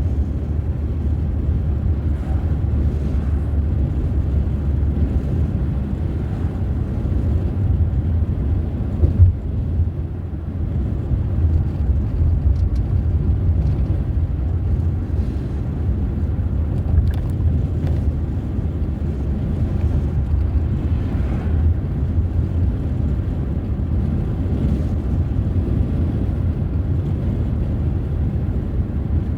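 Steady low rumble of a car driving: road and engine noise, with a brief knock about nine seconds in.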